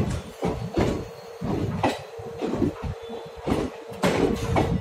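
ICF passenger coaches of a train rolling past close by, their wheels clattering on the rails in an irregular run of knocks over a low rumble.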